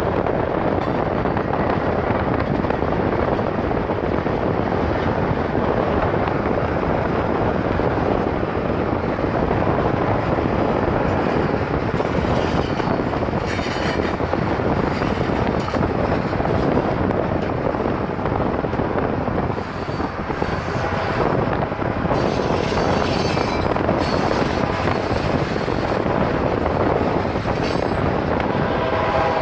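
Freight train's cars rolling along the rails, a steady rumble and rattle, heard from a car driving alongside with wind and road noise mixed in. A few brief higher-pitched bursts come about halfway through and again about two-thirds of the way in.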